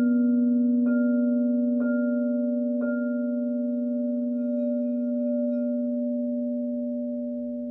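Crystal singing bowls ringing: a low bowl holds a steady deep tone while a higher bowl is struck four times, about once a second, its ringing tone slowly fading. The whole sound slowly dies away.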